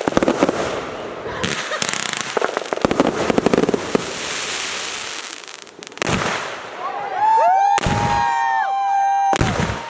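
Consumer fireworks: dense rapid crackling for the first few seconds, then sharp bangs about six, eight and nine and a half seconds in, with whistling fireworks shrieking in several wavering pitches over the last three seconds.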